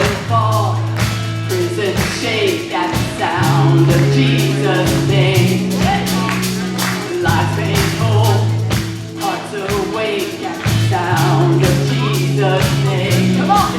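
A worship band playing a rock-style praise song, with singing over bass guitar, drums and a steady beat.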